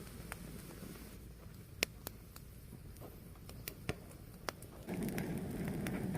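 Fire burning with scattered sharp crackles and pops over a low steady rush of flame. The flame noise swells louder about five seconds in.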